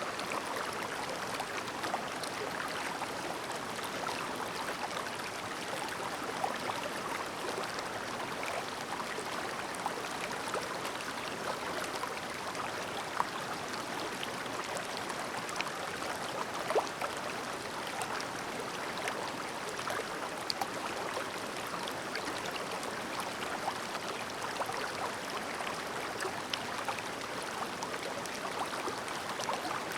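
Clear, shallow river babbling over stones: a steady murmur of running water with small splashes and droplet ticks scattered through it.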